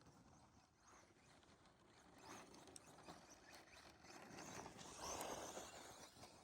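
Faint sound of an electric 4x4 RC short-course truck, a Tekno SCT410SL, driving over snow: swells of tyre and motor noise that rise and fall as it moves, loudest about five seconds in.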